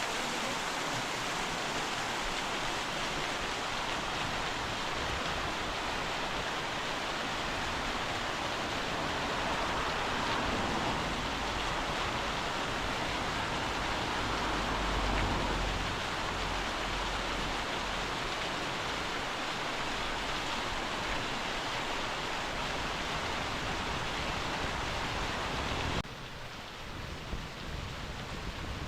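Waterfall pouring, a steady rush of falling water. About 26 seconds in it cuts abruptly to a quieter, thinner rush.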